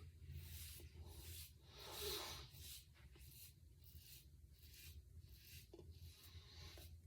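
Faint, short scraping strokes of a double-edge safety razor cutting stubble through shaving lather, repeating about twice a second, on the first pass of a wet shave.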